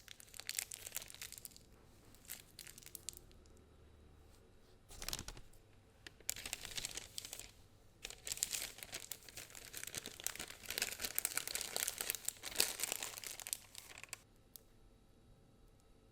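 A plastic piping bag crinkling and rustling in irregular bursts as it is handled and filled with the blended chicken and egg yolk mixture.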